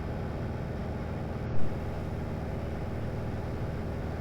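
Piper Arrow light airplane's piston engine and propeller droning steadily in cruise, heard inside the cabin: a constant low hum with a wash of airflow noise, and one brief rise in level about a second and a half in.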